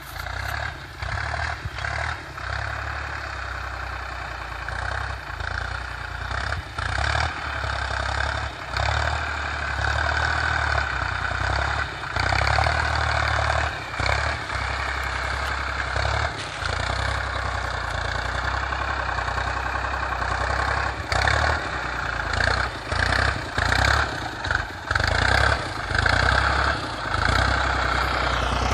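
Tractor engine running steadily as the tractor is driven, a continuous low rumble with many brief dips in level.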